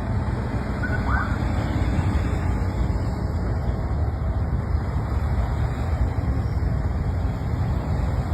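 Steady low rumble and hiss of a moving road vehicle, with a brief faint squeak about a second in.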